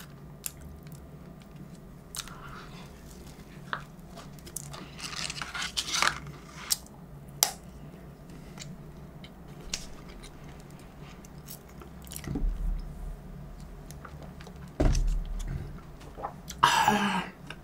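Close-miked chewing of a soft, warm biscuit, with wet mouth smacks and scattered small clicks. There are a couple of dull bumps later on and a brief louder mouth sound near the end.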